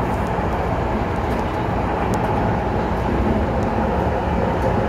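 Steady running noise inside a moving MTR M-Train (Metro-Cammell electric multiple unit) car: a low rumble of wheels on rail and the undercarriage.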